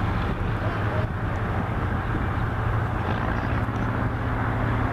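Aircraft engine droning steadily, with a constant low hum.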